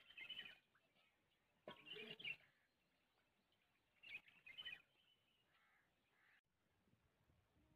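Birds calling in three short bursts, near the start, about two seconds in and about four seconds in.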